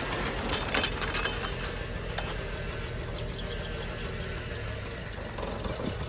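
Pickup truck engine idling steadily, with a few sharp clicks and knocks in the first couple of seconds.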